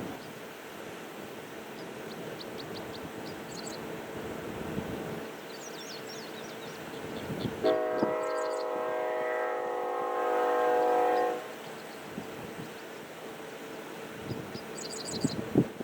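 Diesel locomotive air horn sounding one long blast of about three and a half seconds, a steady chord of several notes, starting about halfway through.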